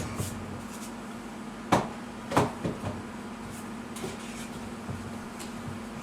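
Hollow knocks of molded plastic shelf parts being fitted together: two sharp knocks about half a second apart near the middle, then a few lighter taps.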